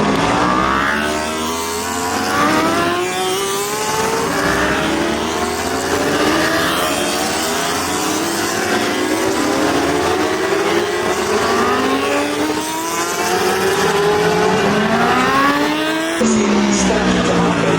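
Racing superbikes at full throttle, their engines climbing in pitch through the gears and dropping back at each shift, one after another. Near the end the sound cuts abruptly to another burst of engine noise.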